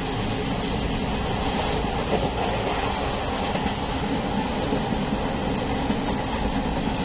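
Steady running noise of a passenger train, heard from inside a crowded general coach.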